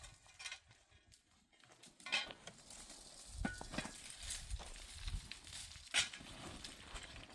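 Livestock moving about: scattered short knocks and steps, with a low rumble about halfway through.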